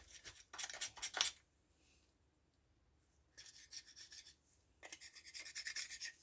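Quick rasping, rubbing strokes from chainsaw parts being scrubbed clean, in a short spell, then a pause of about two seconds, then more strokes.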